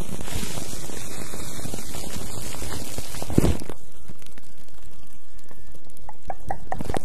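Towel rubbing against the microphone: close, dense scratchy fabric noise, with a louder scrape about three and a half seconds in, after which it turns softer with light ticks.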